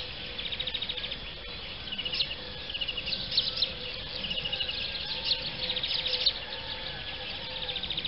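Small birds chirping and trilling over and over in short rapid high-pitched bursts, with a faint steady hum underneath.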